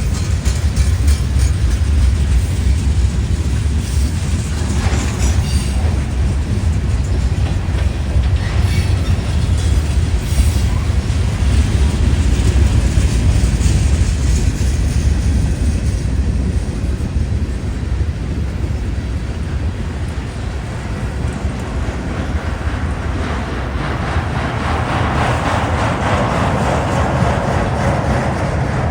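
CSX freight train rolling past with a steady low rumble and wheels clicking over the rails. A higher rushing noise builds near the end.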